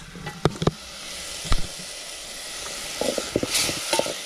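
Carrots in tomato sauce sizzling in an aluminium pot on a wood fire, with a few sharp knocks in the first two seconds and a spoon stirring and scraping the pot from about three seconds in.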